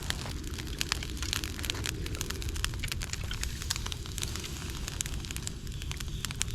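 Dry bamboo and twigs burning in a campfire stand: many sharp crackles and snaps over a steady low rumble of the fire.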